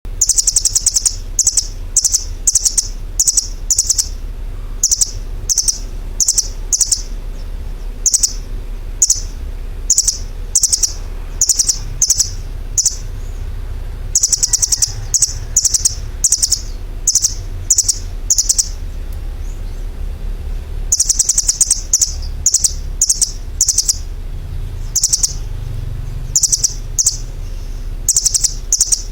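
A bird chirping: runs of short, high-pitched chirps, about two or three a second, broken by brief pauses, over a steady low hum.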